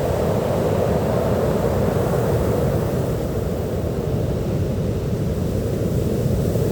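Ocean surf: a steady, low rush of waves breaking on a beach, swelling slightly a second or two in.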